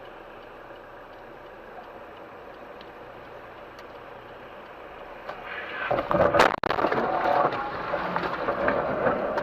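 Steady road noise of a moving vehicle, then a sudden loud crash about six seconds in, likely a collision, followed by louder clattering noise.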